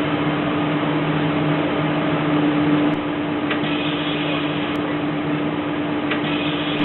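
A steady drone and hiss with a constant low hum, as picked up by a city bus's surveillance camera microphone inside the running bus.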